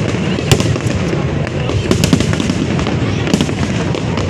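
Aerial fireworks going off in quick succession: a series of sharp bangs over a continuous low rumble and crackle.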